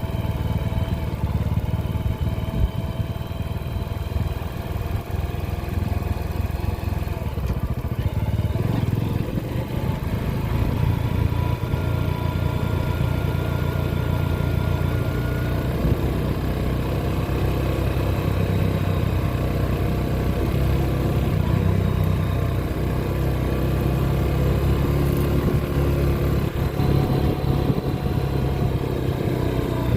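Motorcycle engine running steadily while riding, its pitch drifting gently up and down as the speed changes.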